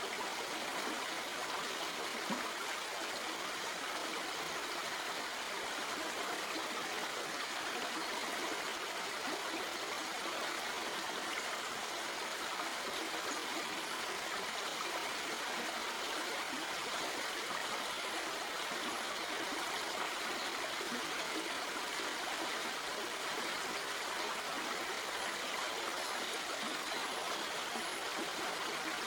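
Stream flowing over rocks: a steady, even rush of running water with no breaks.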